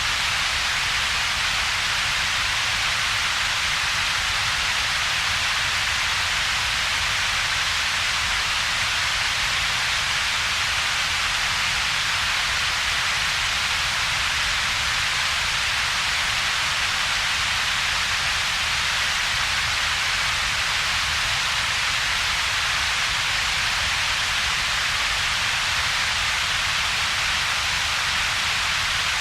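Synthetic double-peaked noise: a steady, unchanging hiss with its energy in two bands, a bright band around a few thousand hertz and a low rumble band, with a hollow between them.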